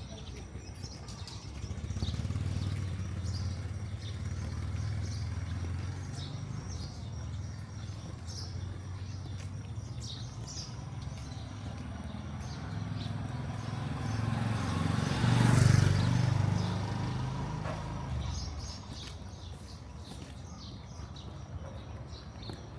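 Street traffic: a steady engine rumble of passing vehicles, with one vehicle passing close and loudest about two-thirds of the way through, then fading. Birds chirp in short high calls throughout.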